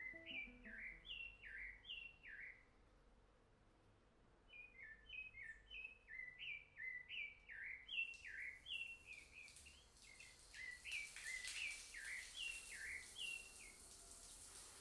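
A small bird chirping over and over, short falling chirps about twice a second, with a brief pause about three seconds in. A steady faint hiss joins about eight seconds in.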